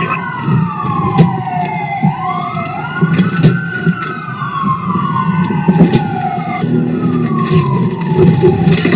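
Police siren wailing in slow rising and falling sweeps, with two wails overlapping at times, over the steady engine and road noise of a car in pursuit.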